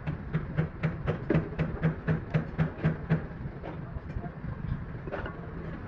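Hammer blows on a truck's metal fuel tank, beating out the dents: quick regular strikes about four a second, spacing out after about three seconds, over a steady low hum.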